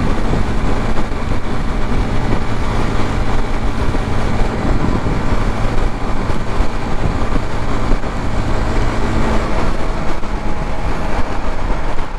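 Riding noise on a Suzuki GZ250 motorcycle: steady wind rush over the microphone with the bike's single-cylinder engine running underneath.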